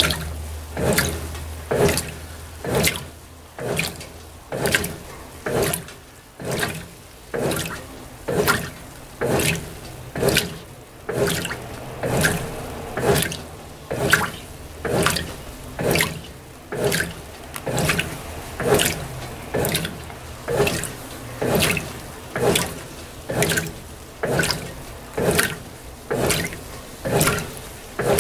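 Brastemp BWT12 top-loading washing machine agitating a load of delicates in shallow water on its gentle intimates cycle: a rhythmic slosh and splash, a little more than once a second, as the agitator swings back and forth.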